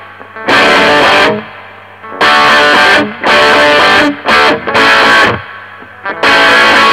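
Electric guitar played through a Mesa Boogie Recto-Verb 25 all-tube combo with its gain channel turned down to about half, giving a crunchy, lightly distorted chord tone. The chords are struck in short stabs that are cut off sharply, about six in all, with a faint steady hum in the gaps.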